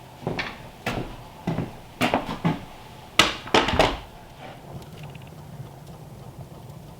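A rapid string of sharp knocks and clatters, loudest a little past the middle, as things are handled and set down; they stop about four seconds in, leaving a low steady hum.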